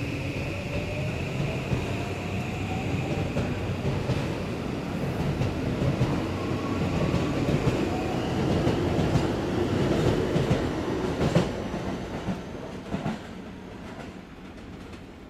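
Toei 5500 series electric train pulling out, its motors whining up in pitch as it gathers speed, then wheels clacking over the rail joints as the last cars pass. The sound fades away near the end.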